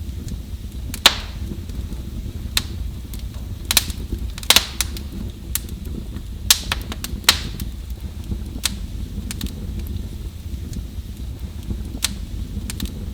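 Wood fire crackling: irregular sharp pops and snaps, the loudest few in the first half, over a steady low rumble.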